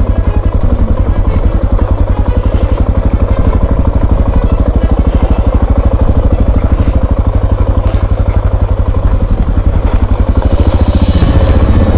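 Single-cylinder dual-sport motorcycle engine running close by with an even, rapid pulse, its revs rising near the end.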